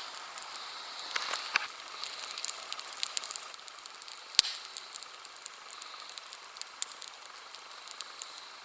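Wood campfire crackling: a steady hiss with irregular sharp snaps and pops, the loudest single snap about four and a half seconds in.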